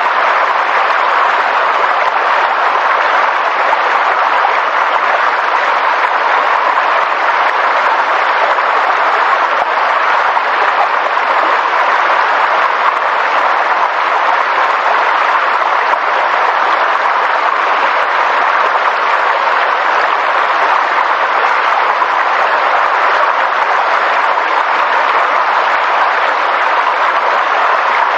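Steady, unbroken rushing of water, even and unchanging throughout.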